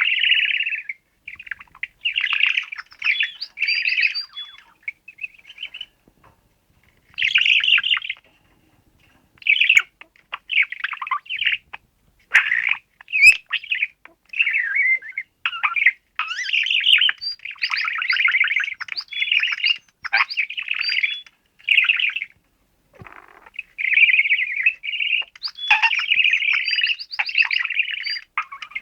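Chirping and warbling from a budgerigar and a DigiBirds electronic toy bird, in chattering bursts of one to a few seconds with short pauses between them.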